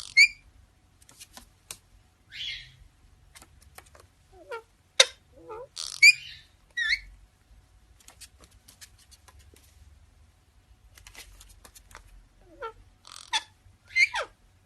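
Pet parrot making short squeaks and chirps with quick pitch slides, mixed with sharp clicks, in scattered bursts: a cluster about five to seven seconds in and another near the end.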